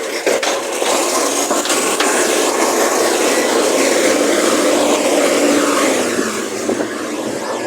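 Recycling truck running loud and steady, its engine and machinery working, easing off a little about six seconds in.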